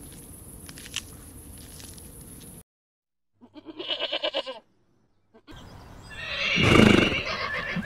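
Two separate animal calls: a short, rapidly pulsing call about halfway through, then a louder call that swells to a peak near the end.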